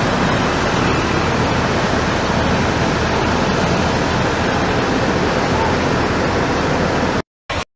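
Floodwater rushing in a steady, loud, even torrent, which breaks off suddenly near the end.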